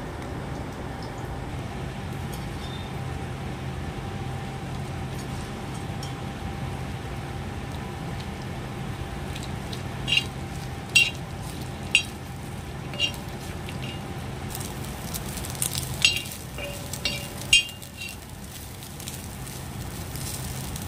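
Chicken samosas deep-frying in hot oil with a steady sizzle. In the second half a metal spoon clinks sharply against the pan about a dozen times.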